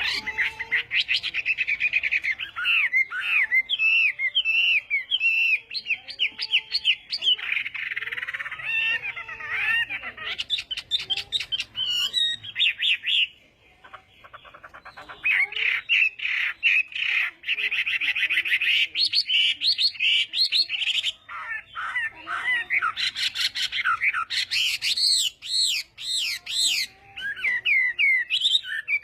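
Chinese hwamei (hoạ mi) singing a long, fast, varied song of whistles and trills, with a short pause about halfway through.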